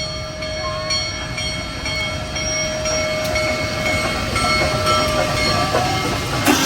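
Union Pacific Big Boy 4014, a 4-8-8-4 articulated steam locomotive, and its train passing close by: a steady low rumble with a ringing tone held over it and faint regular clicks about twice a second. A sharp crack comes near the end.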